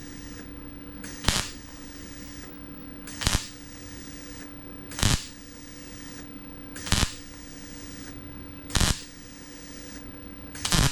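MIG welder plug-welding small 1/8-inch Cleco holes in sheet steel with short tack pulses: six brief bursts, evenly spaced about two seconds apart, over a steady low hum.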